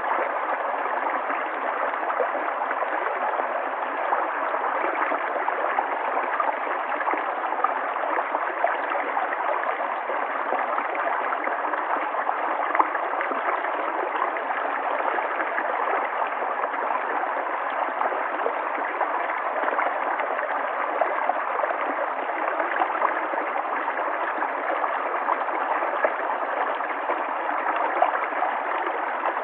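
River water flowing: a steady rushing with small gurgles and splashes scattered through it.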